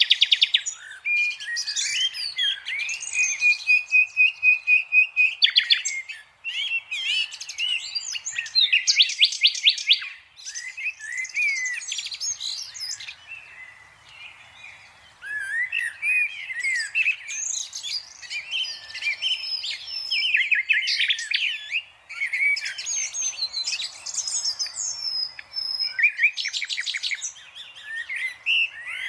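A green parrot chirping and whistling in a varied stream of calls, with fast rattling trills and a held wavering whistle a few seconds in.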